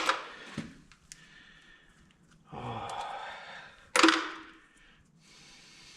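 Sharp knocks of parts and tools being handled during an engine teardown: one at the start, a smaller one just after, and the loudest about four seconds in, with a breathy sound between them.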